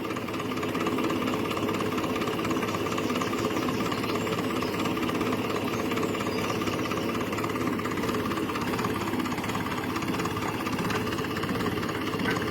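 Grey Ferguson "Fergie" tractor engine running steadily at a low, even speed.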